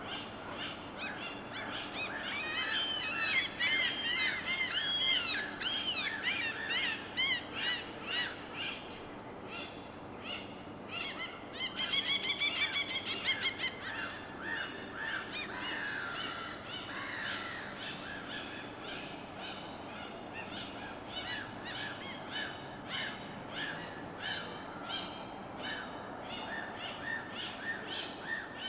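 A chorus of birds chirping and calling over a steady low wash of harbor water. There are quick, arching chirps near the start, a fast rattling trill a little before the middle, and then repeated short calls.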